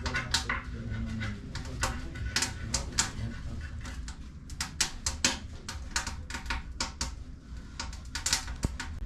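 Irregular sharp clicks and crackles, several a second, over a steady low rumble.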